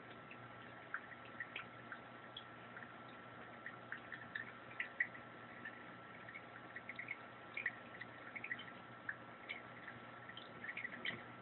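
Small water splashes and drips in a sink as a budgerigar bathes, coming in short irregular bursts, busiest in the second half.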